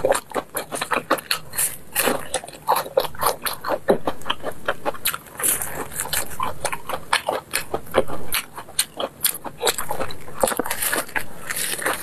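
A person biting and chewing sesame-crusted pumpkin cakes, with many quick crunches and crackles of the crisp crust.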